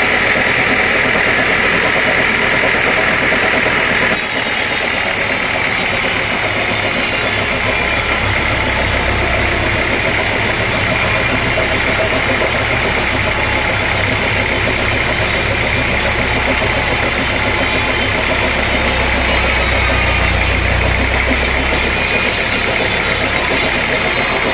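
Sawmill machinery running steadily with a constant high whine. A deeper engine hum comes in a few seconds in and drops away near the end.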